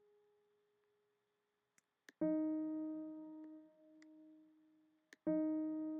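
Software piano playing back MIDI notes: a note fading out, a short pause with a few sharp clicks, then a piano note struck about two seconds in that rings and fades, and another struck about five seconds in. Each note is auditioned after being nudged off the grid to sound hand-played.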